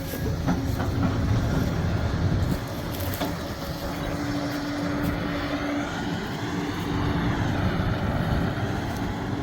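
Sumitomo SH370LHD-6 excavator working: its diesel engine runs steadily under load, with a steady whine joining about four seconds in and a few short metallic knocks.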